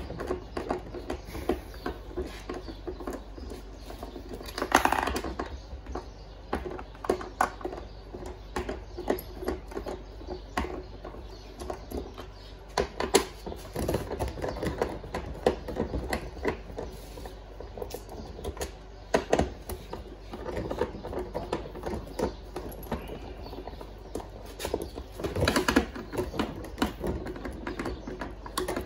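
Irregular clicking, tapping and knocking of hard parts and tools being handled during work on a washing machine, with a few louder knocks, over a faint low hum.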